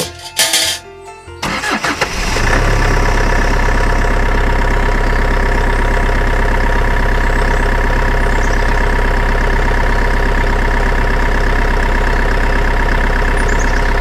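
A small engine starts about two seconds in, rising quickly, then runs at a steady speed with an even drone.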